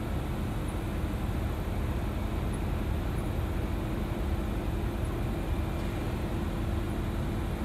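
Steady low rumble with a faint steady hum from electric passenger trains at a railway station, including a red train on the distant track.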